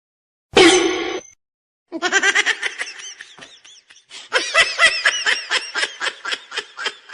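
A person laughing in a long run of short, quick bursts, after a brief loud voiced sound about half a second in.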